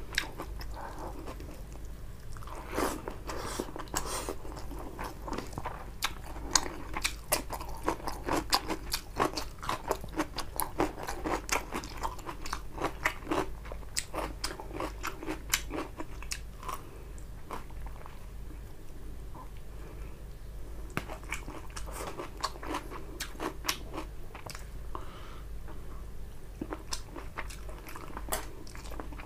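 Close-miked eating of rice and tilapia fish curry: chewing and crunching with many sharp wet mouth clicks and crackles, dense for the first half and sparser, in clusters, later.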